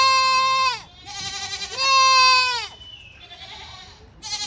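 Young goats bleating: two loud, long, high calls, each held about a second and dropping in pitch at the end, with fainter bleats between them and a third loud call starting near the end.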